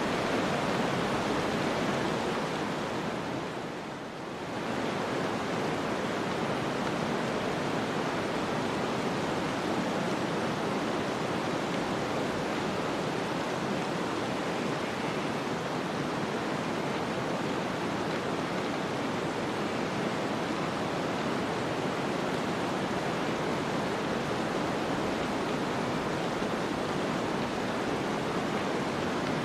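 Steady snowstorm wind noise, an even rushing hiss that briefly dips in loudness about four seconds in.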